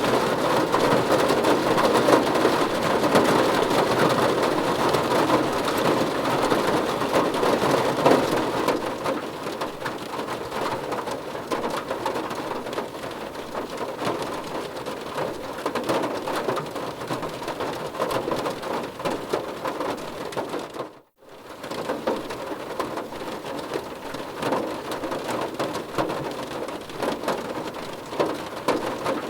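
Rain falling on a car's roof and windows, heard from inside the car as a steady patter. It is heavier for the first eight seconds or so, then eases, with a split-second gap about twenty seconds in.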